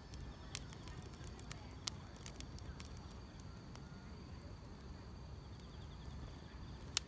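Wood fire crackling, with sharp pops scattered over a steady low rumble and the loudest pop near the end, over a faint, steady trill of insects.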